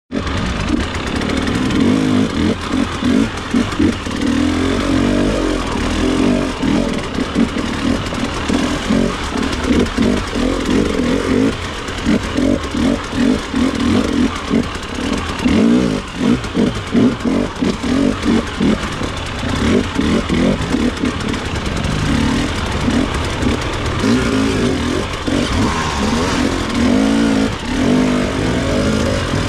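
Enduro dirt bike engine running at low speed, the throttle opened and closed again and again, so the engine note surges and drops irregularly throughout.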